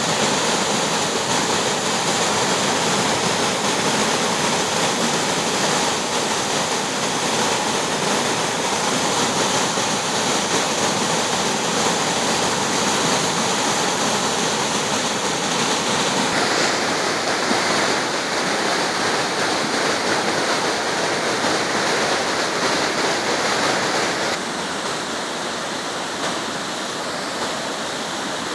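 Waterfall water rushing in a steady, loud wash of noise. Its tone shifts abruptly twice, about two-thirds of the way in and again near the end, where it also becomes slightly quieter.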